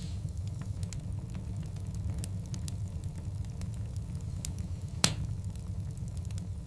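Wood fire of large burning logs crackling, scattered sharp pops over a steady low rumble of the flames, with one loud snap about five seconds in.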